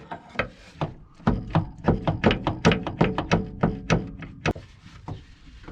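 A rapid, uneven series of knocks and clunks, several a second, from a dump truck's cab and gear shifter being rocked and shifted around. The shifter is rubbing and knocking against the cab where it shouldn't.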